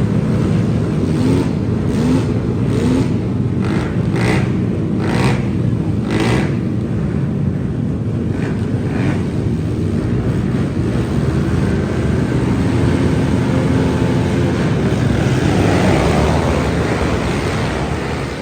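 Motor vehicle engines running with a steady low rumble, a few short sharp bursts in the first seven seconds and a swell of louder engine noise near the end.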